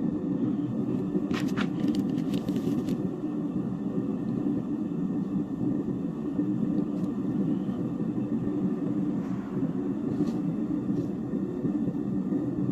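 Gas flame roaring steadily, as when melting silver for sand casting. A few sharp metallic clicks come about a second in.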